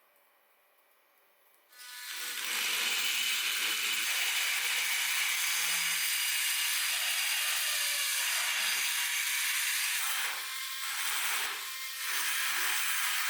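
A small power tool abrading a surface: a continuous scraping whir that starts about two seconds in and dips briefly a few times near the end.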